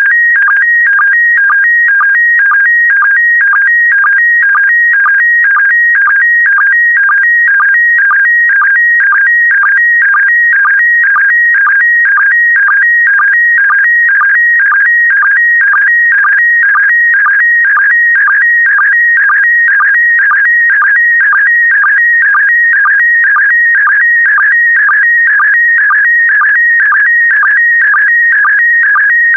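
PD120 slow-scan television (SSTV) signal carrying image data. It is a continuous warbling of tones between about 1.5 and 2.3 kHz, with a regular sync beat about twice a second as each pair of picture lines is sent.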